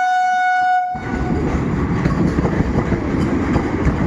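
Train horn sounding on one steady note, cutting off about a second in, then the steady noise of a train running on the rails.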